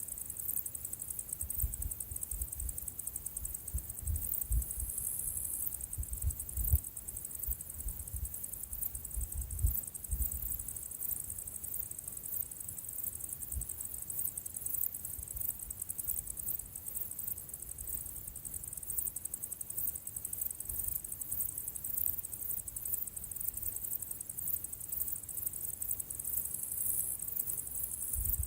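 Insects chirring in a continuous high, rapidly pulsing chorus, with irregular low thumps underneath, most frequent in the first ten seconds or so.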